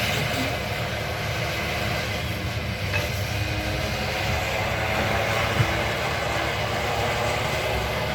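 Excavator working: its diesel engine running steadily, with a single short knock about five and a half seconds in.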